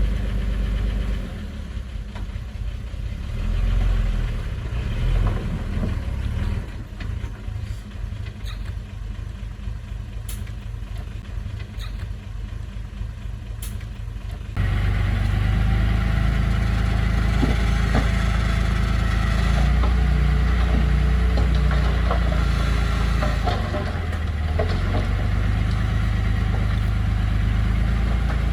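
Heavy construction machine's engine running steadily. About halfway through, the sound jumps suddenly louder and fuller, with a few sharp clicks just before.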